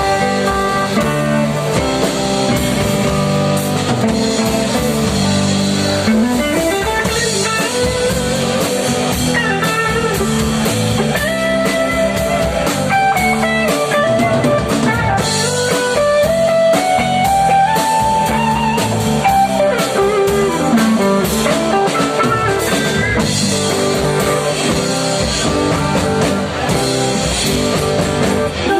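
Live band's instrumental break: a lead electric guitar plays a melody with sliding, bent notes over bass guitar and drum kit.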